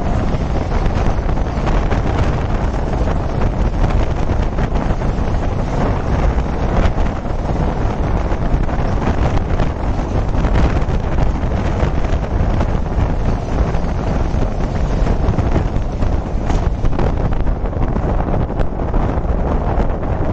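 Heavy wind buffeting the microphone from a moving passenger train, over a steady low rumble of train wheels on rails as a container freight train passes on the next track, with a few faint clanks.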